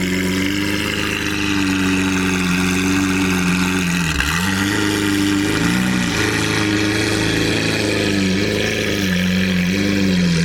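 Lamborghini Aventador SV's V12 idling loudly through a catless, straight-piped exhaust. The steady idle note briefly wavers in pitch a few times, from about four seconds in.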